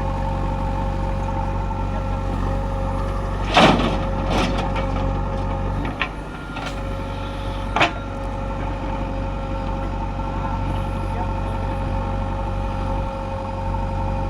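Heavy diesel earthmoving machinery, a backhoe loader or tractor, running steadily with a low engine hum. There is a sharp clank about three and a half seconds in, then a few lighter knocks over the next four seconds.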